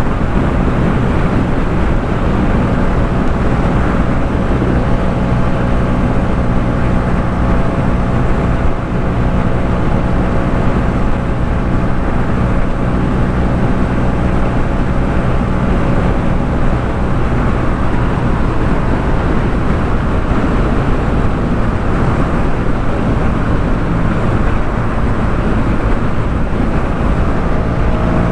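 Yamaha MT-07's parallel-twin engine breathing through a Jeskap K4 full aftermarket exhaust, running at steady revs while the bike cruises along, with a constant rush of noise over it.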